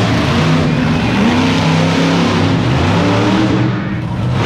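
Monster truck engine revving loudly, its pitch climbing about a second in and holding high, then easing off near the end.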